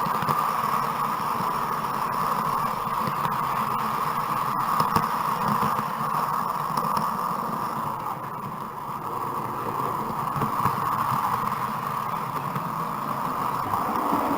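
Steady running noise of a 00 gauge model train heard from a camera riding in its observation carriage, with a few faint clicks over the first five seconds.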